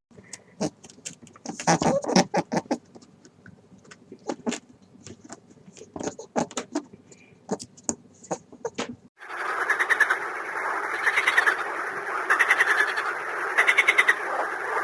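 Animal calls: a run of irregular, sharp clicking croaks, then about nine seconds in a change to a denser, noisier recording with a call repeated about once a second.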